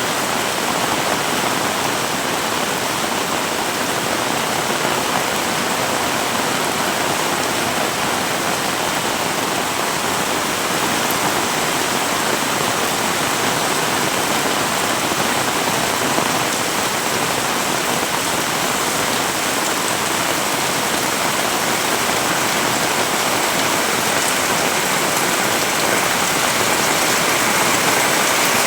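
Heavy rain pouring steadily, a dense, even hiss of countless drops, growing a little louder near the end.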